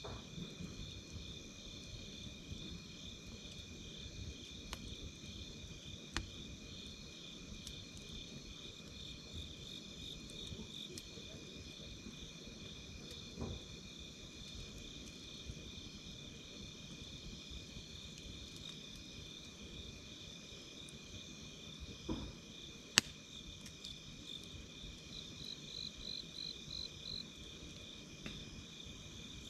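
Night insects chirping steadily in pulsing trills over the low hiss of a wood campfire, with occasional sharp crackles and pops from the burning wood, one much louder pop about three-quarters of the way through. Near the end a second insect adds a short, higher pulsed trill.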